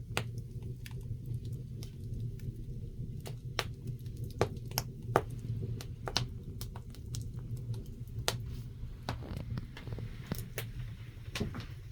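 Wood fire burning in a wood stove, crackling with irregular sharp pops and snaps over a steady low hum.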